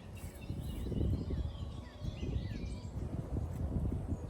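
Small songbirds chirping and twittering in quick, short notes, over a louder low, uneven rumble.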